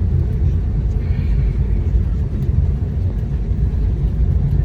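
Steady, loud low rumble inside the cabin of an Airbus A321neo (A321-252NX), heard from a passenger seat.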